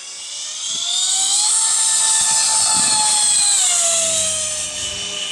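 The twin electric ducted fans of a radio-controlled CRJ-200 model jet whine through a low pass. The whine rises in pitch and loudness over the first second or so, holds, then drops in pitch about four seconds in as the jet goes by and fades.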